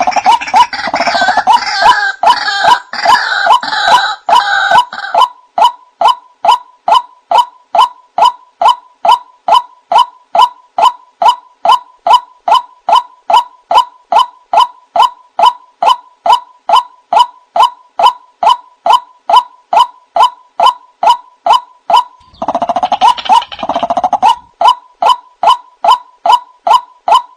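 White-breasted waterhen calling: a monotonous note repeated about twice a second throughout, with a raucous, chattering croaking chorus over it for the first five seconds or so and again briefly near the end.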